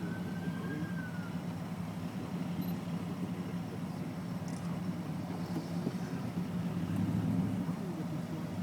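Steady low hum of a car running, heard from inside its cabin.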